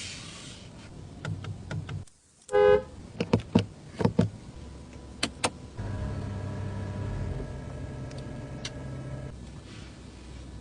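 Car's electric fittings at work: a brief electronic chime, a run of sharp clicks, then an electric motor running steadily for about three and a half seconds, of the kind that drives a power window.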